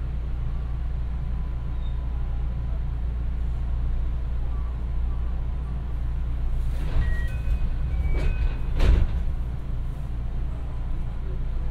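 JR West 221 series electric train heard from inside the carriage while running: a steady low rumble of wheels on rail. About seven seconds in come a few sharp clunks with brief high squeals, the loudest clunk near the end.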